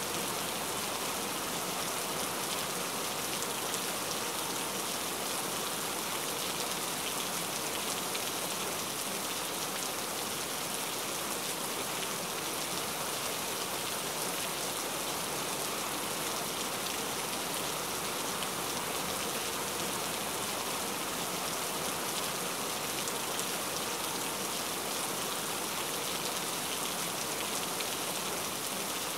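Steady rain falling: a rain ambience, an even hiss that does not change.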